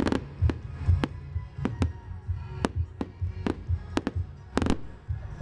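Fireworks going off in a display: irregular sharp bangs and cracks, with a close burst of several about four and a half seconds in, over music with a low, repeating bass thump.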